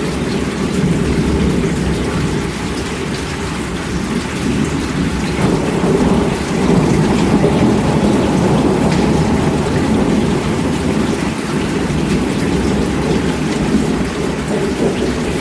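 Heavy rain falling steadily, with a low rolling rumble of thunder under it that swells a little around the middle.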